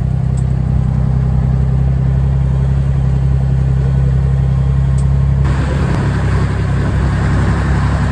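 Vehicle engine droning steadily with road noise, heard from inside the cab on the move. About five seconds in the sound changes abruptly and more hiss comes in.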